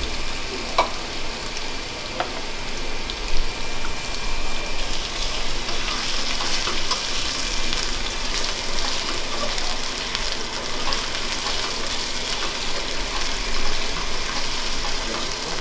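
Shrimp and chopped garlic sizzling in hot oil in a frying pan, stirred with a slotted spatula, with a few sharp knocks of the spatula against the pan in the first few seconds.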